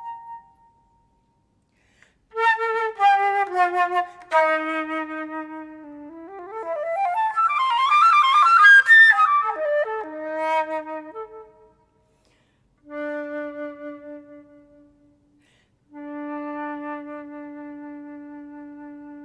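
Solo flute playing a slow, phrase-by-phrase passage with short pauses between phrases. There is a fast flurry of notes in the middle, and it ends on a long held low note.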